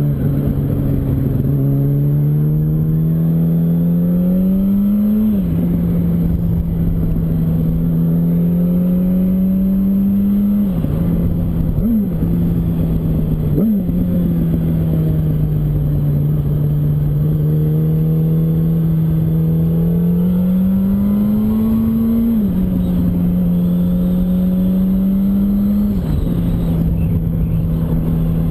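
A Yamaha R1 sport bike's inline-four engine under way. Its pitch climbs steadily and then drops suddenly several times as gears change, with two quick sharp throttle blips about eleven and thirteen seconds in. Steady wind noise runs underneath.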